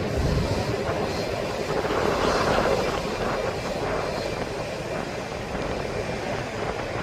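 Jet airliner engines running as the aircraft passes: a steady rushing noise with a faint high whine. It swells to its loudest a couple of seconds in, then eases off.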